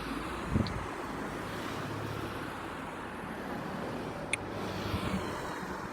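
Road traffic running past on a busy road, a steady rumble of car engines and tyres with wind on the microphone, a low thump near the start and a short high chirp about four seconds in.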